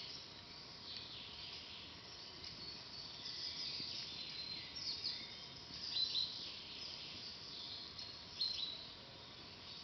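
Forest birds chirping and calling over a steady outdoor hiss, with a few brief, louder sharp sounds about five to six seconds in and again near the end.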